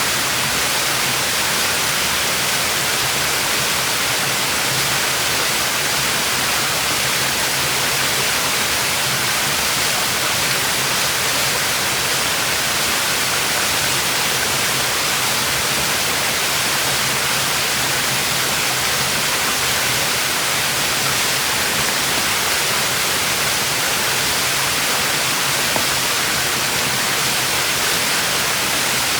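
Waterfall: water falling onto rock and a pool in a steady, even rush, strongest in the hiss range.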